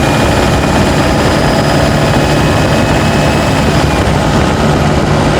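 Turbocharged diesel pickup engine, picked up by a microphone in the engine bay, running under load at steady revs, with a thin steady turbo whistle high above the engine drone.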